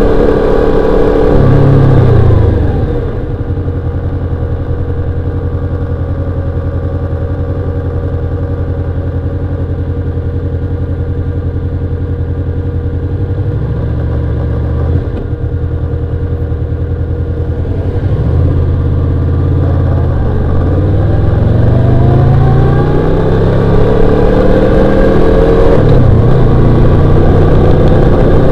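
Honda VFR800X Crossrunner's V4 engine on the move: it drops in pitch about two seconds in and runs low and steady, then climbs again in the second half, with one dip in pitch near the end as it shifts up.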